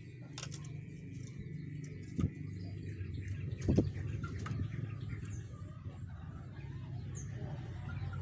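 Caged rengganis bird giving a few short, faint chirps over a steady low hum, with scattered clicks and a louder knock about four seconds in.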